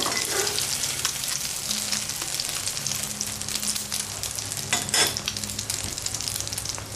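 Thai egg omelette frying in a few tablespoons of very hot oil in a wok: a steady crackling sizzle full of fine spitting ticks, with a short louder noise about five seconds in.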